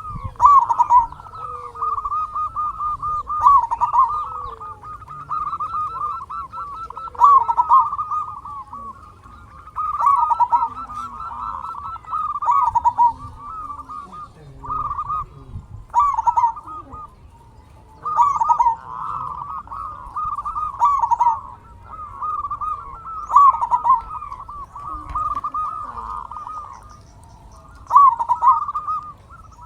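Zebra dove (perkutut) cooing: phrases of quick, stuttering notes, one after another every few seconds.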